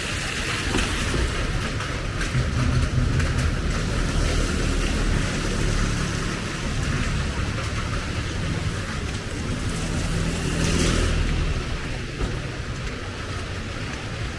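Street ambience in the rain: a steady hiss of rain with a motor vehicle's engine rumbling close by.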